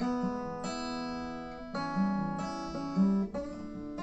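Acoustic guitar playing chords, with several chord changes and no singing.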